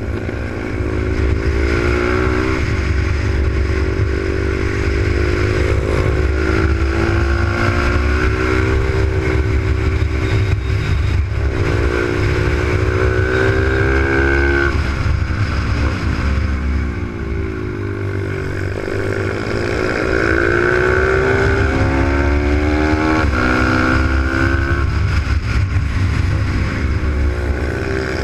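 Z155 pit bike's single-cylinder four-stroke engine, heard onboard, revving up and dropping back again and again as the bike accelerates out of corners and brakes into them. A steady low rumble runs underneath.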